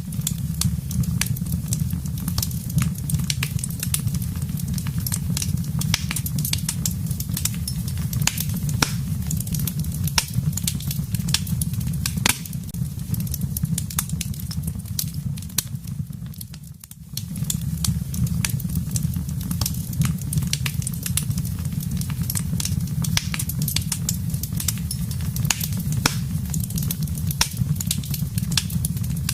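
Wood fire burning in a fireplace: dense, irregular crackles and sharp pops over a steady low rumble. It dips briefly about sixteen seconds in.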